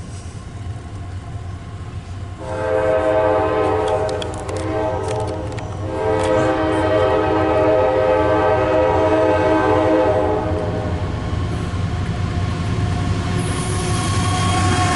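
Approaching CSX coal train: the diesel locomotive sounds two long horn blasts, the second longer, over a steady low rumble of its engines. Near the end the noise of the train grows as it draws close.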